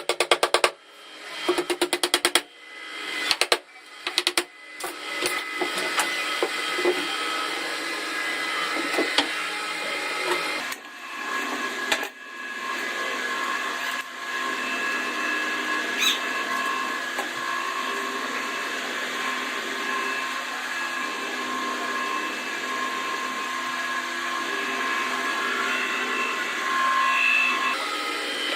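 Handheld electric power tool run in several short bursts, then running steadily, with two brief breaks about eleven and twelve seconds in.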